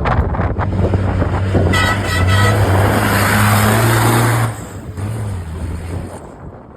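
Dakar rally truck passing at speed, its engine a steady low drone with a wash of tyre and gravel noise. Three short horn toots sound about two seconds in. The truck is loudest until about four and a half seconds, then drops away suddenly and fades.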